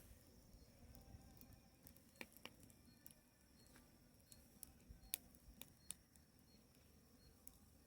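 Near silence with a few faint, sporadic pops and crackles from a wood bonfire burning.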